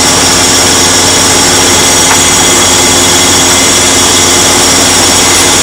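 Boat engine running steadily, a loud even drone with a constant hum.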